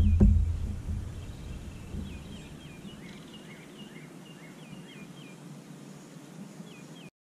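Small birds chirping over and over, short quick calls that dip and rise in pitch. A low rumble at the start fades away within the first second or two, and the sound cuts off just before the end.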